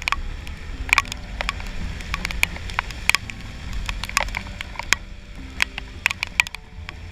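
Raindrops ticking irregularly and sharply on the helmet-mounted camera, over the low steady rumble of a Honda Click 125i scooter and wind while riding in rain.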